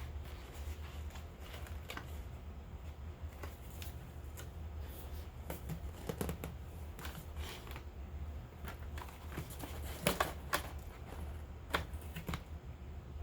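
Hands handling packaging and cosmetic products: scattered light taps, clicks and rustles, with a few sharper knocks about ten seconds in, over a low steady hum.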